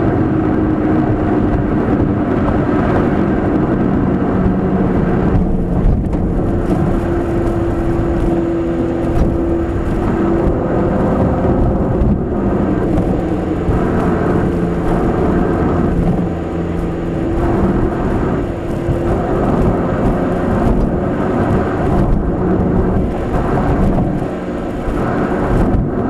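Nissan March 12SR's 1.2-litre four-cylinder engine running under way through a Kakimoto Racing centre pipe and GTbox 02 edi. rear muffler, heard from inside the car with road noise. The engine note holds fairly steady, rising and falling a little in pitch, with a few brief dips in level.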